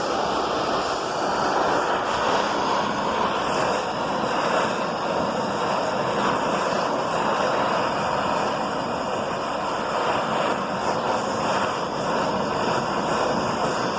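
Handheld butane torch flame burning steadily, a constant rushing hiss as it heats aluminium pieces up to the working temperature for a Durafix aluminium brazing rod.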